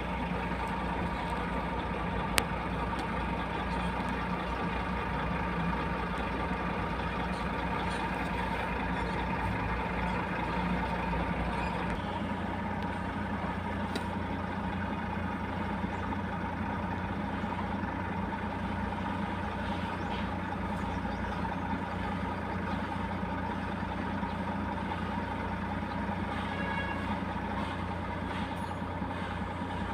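A steady engine-like hum that changes slightly in tone about twelve seconds in.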